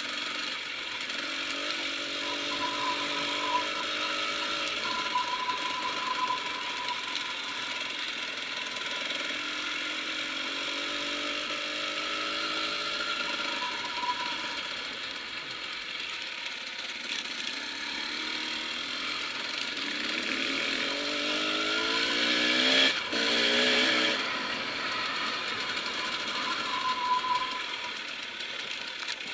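KTM enduro motorcycle engine being ridden off-road, revving up in repeated surges with the pitch climbing each time. The longest and loudest climb comes about three-quarters of the way through, with a brief sharp knock in it.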